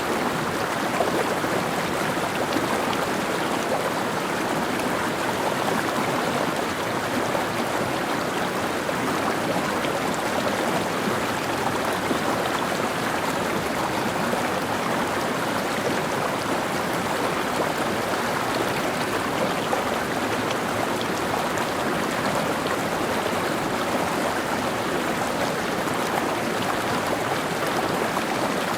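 Mountain stream flowing: a steady rush and babble of water over rocks.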